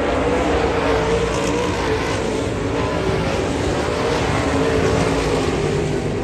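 Late model race car engines running steadily at speed, one engine tone wavering slightly as the throttle changes.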